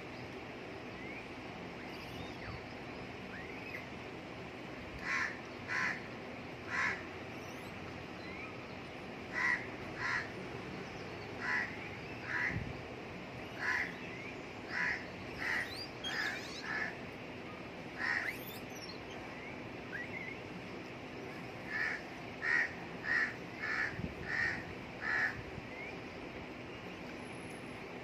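A bird cawing in runs of two to six short calls, starting about five seconds in, with faint small-bird chirps in the background.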